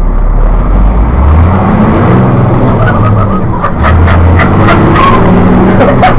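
Diesel truck engine revving hard in repeated surges, its deep note swelling and falling several times, as when rolling coal.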